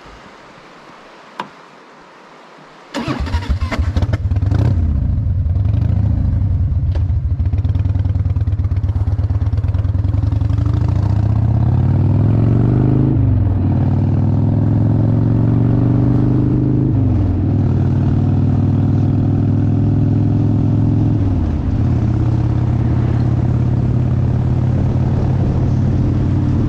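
Motorcycle engine starts up about three seconds in, then the bike pulls away and accelerates. The engine note climbs and drops sharply at three upshifts, at about 13, 17 and 21 seconds.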